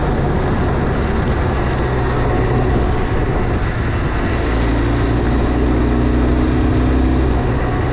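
Benelli TRK 502 parallel-twin engine running steadily at riding speed, heard under wind rush. A higher steady tone joins for a couple of seconds in the middle.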